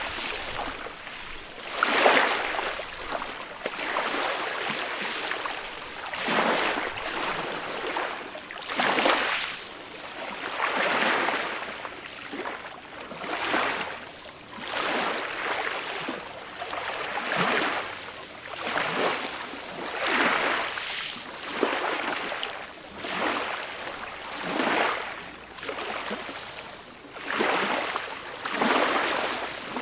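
Small, gentle waves washing onto a beach, breaking and running up the shore in a steady series of swells about every couple of seconds.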